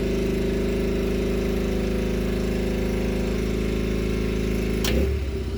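Predator generator's small single-cylinder engine running steadily under load, failing to run an air compressor plugged into it. About five seconds in there is a sharp click, after which the engine note changes and a low hum comes in.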